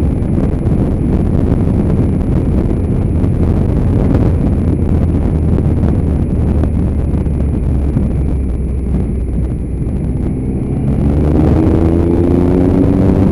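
Motorcycle engine running under way, with wind rushing over the microphone. Near the end the engine note rises as the bike accelerates.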